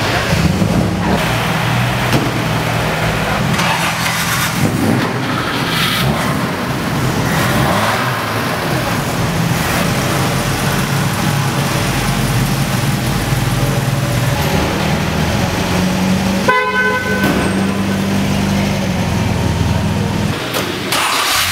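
Car engines idling and running, with a car horn sounding briefly about sixteen seconds in.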